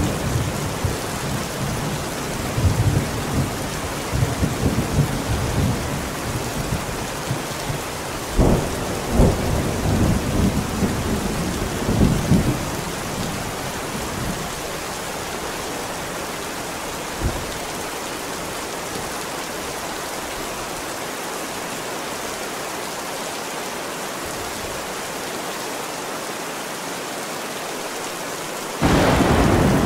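Steady heavy rain with thunder rumbling low through the first half, including a couple of sharp cracks about eight and nine seconds in. The thunder dies away leaving the rain alone, until a sudden loud thunderclap breaks in near the end.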